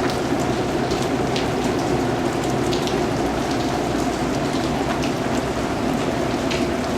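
Steady rain falling: an even, unbroken hiss, with scattered sharp hits of single drops landing close by.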